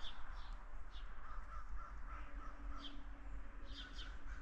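Wild birds calling from the trees: scattered short, high chirps, with a quick run of about five lower notes in the middle.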